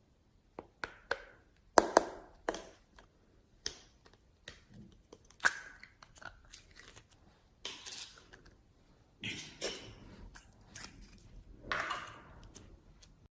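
Slime being squeezed and pressed by hand: an irregular run of sticky pops, clicks and short crackles, the loudest about two seconds in. It cuts off suddenly just before the end.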